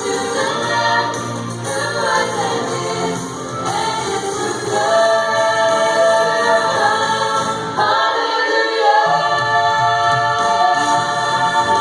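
Choir singing a gospel song, many voices holding sustained notes together. The low voices drop out for about a second near two-thirds of the way through, then come back in.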